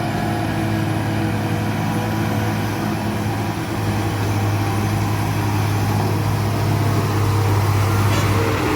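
Heavy truck's engine running with a steady low drone, growing a little louder about halfway through.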